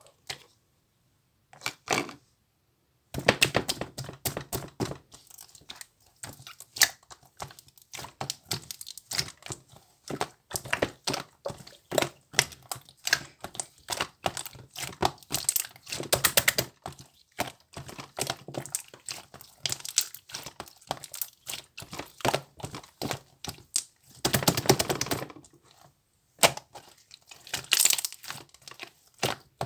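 Rapid, irregular clicking and tapping, many sharp clicks a second, starting about three seconds in, with a brief rustling stretch about four-fifths of the way through.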